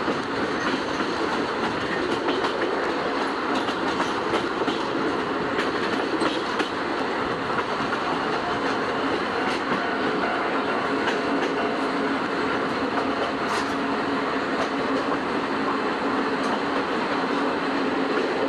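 Old-type passenger coaches of a steam-hauled train rolling along the track, heard through an open window: a steady rumble of wheels on rail with scattered light rail-joint clicks.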